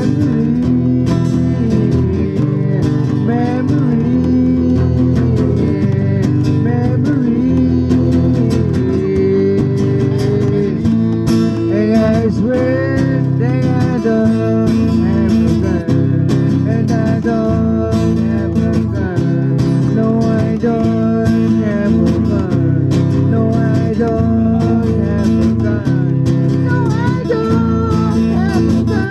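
Live blues band playing a song, led by guitar over bass and drums, with a wavering melody line coming in about a third of the way through.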